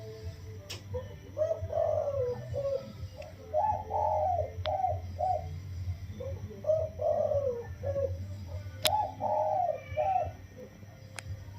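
Spotted dove cooing in repeated phrases of several soft notes, over a steady low hum, with a few brief sharp clicks.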